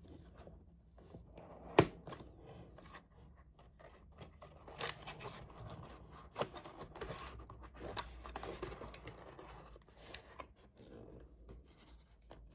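A cardboard box being opened by hand: tape pulled away and cardboard scraping and rubbing in short scratchy bursts, with one sharp tap about two seconds in.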